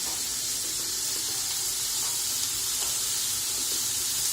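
Onions frying in hot oil, sizzling steadily as they soften.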